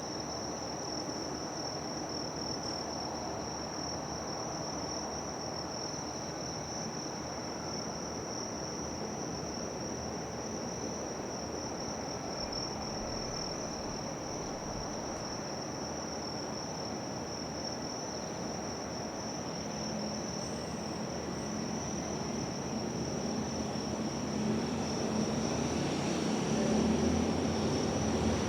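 Insects chirring in one steady high tone over a low, even rumble of background noise. The rumble swells near the end.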